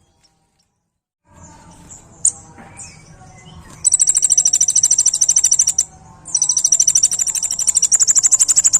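Kolibri ninja sunbird singing its rapid-fire 'tembakan' song: one sharp high chip, then two long, very fast high trills of about two seconds each with a brief pause between.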